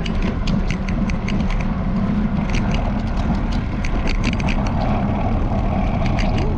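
Bicycle camera mount rattling in quick, irregular clicks over a steady low rumble of riding.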